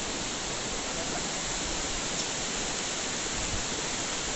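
Steady, even rushing noise without any distinct events.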